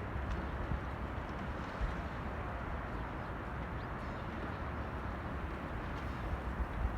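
Steady outdoor city ambience: a low, even rumble of traffic with a few faint ticks.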